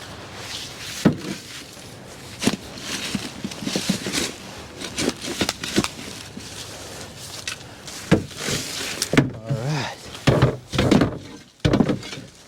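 Garden shovel digging into soil and tipping it out, a series of scrapes and irregular thunks, as a couple of shovelfuls of soil are added to start a compost pile.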